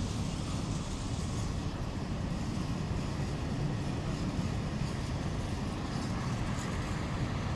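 Freight train of Eaos open coal wagons rolling slowly past: a steady low rumble of wheels on rails, with a few faint clicks.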